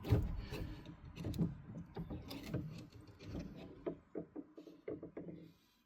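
Internal parts of a magnetic heating-system filter being handled and drawn out of the filter body: irregular small clicks, knocks and scrapes that thin out toward the end.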